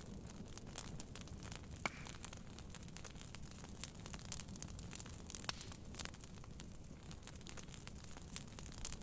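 Wood fire crackling, with irregular sharp pops and snaps, the loudest about two seconds in, over a steady low rush of heavy rain on a tent.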